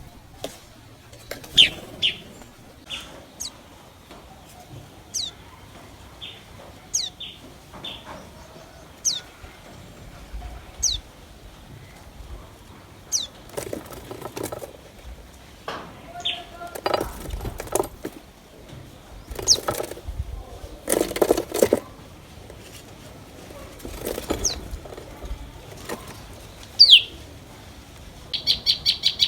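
Common tailorbirds calling: short, high, downward-sweeping notes repeated every second or two. Several brief noisy bursts of wing fluttering come in the second half.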